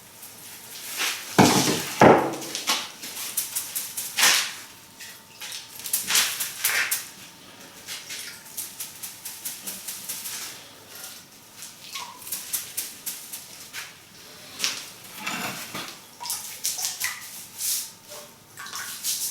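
Mortar work on river-stone cladding: a trowel scraping and clinking against mortar and flat stones as the next stone is set, a long irregular run of scrapes and knocks, the loudest a couple of seconds in.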